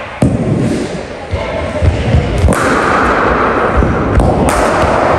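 A series of dull thumps over a loud, rumbling noise, which changes abruptly a few times.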